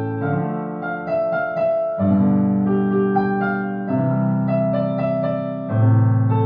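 Solo piano playing a song melody over sustained bass notes and chords, with a new bass note struck roughly every two seconds.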